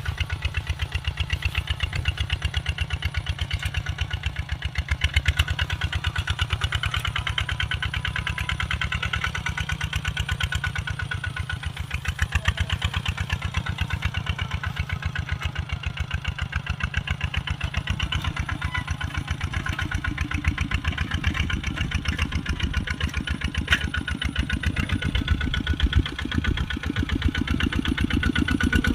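Kubota RT 140 single-cylinder diesel engine running steadily with a rapid, even chugging beat, growing louder near the end.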